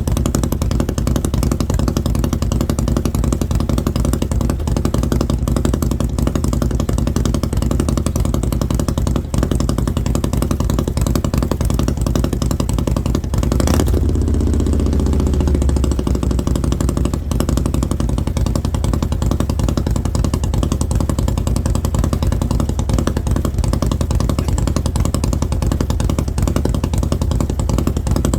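Harley-Davidson Milwaukee-Eight V-twin with an S&S 475 cam and Mutazu 2.0 megaphone slip-on mufflers idling steadily after a cold start. About halfway through there is one sharp crack and a quick rise in revs that falls back to idle.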